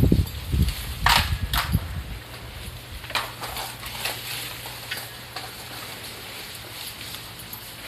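Fallen bamboo and sasa stalks and leaves crackling and rustling as a cow tramples and tosses them. There are heavy thumps and sharp cracks in the first two seconds, then lighter scattered crackles.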